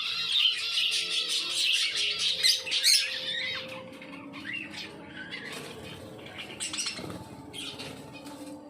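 A flock of caged lovebirds chattering and squawking: a dense, shrill din over the first three seconds, thinning to scattered calls after that.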